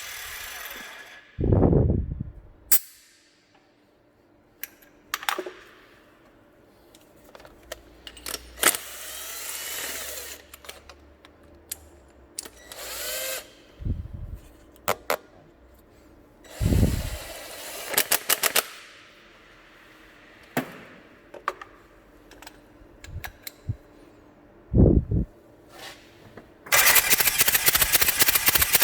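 Hand-tool clicks and knocks with several short sounds falling in pitch, then, near the end, the four-cylinder D4BH diesel engine turned over on the starter in a steady even pulse, as cranking for a compression test.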